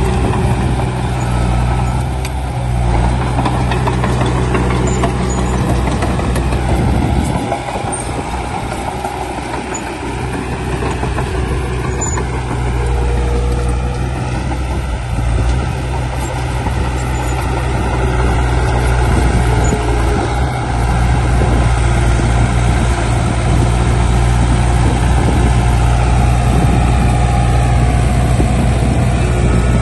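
Heavy diesel engine of earthmoving machinery running steadily under load, easing off a little about eight seconds in and then building again.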